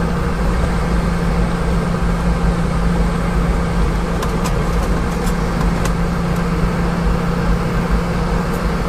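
Boeing 717-200 cabin noise after landing: a steady drone with a deep rumble and an even hum underneath, and a few faint ticks about halfway through.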